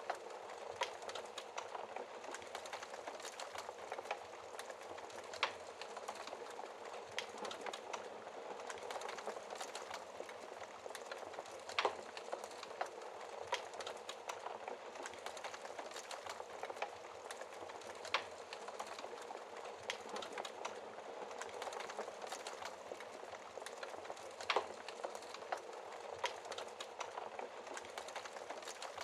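Fire crackling in a fireplace: a steady hiss with irregular sharp pops and snaps, a few louder pops standing out.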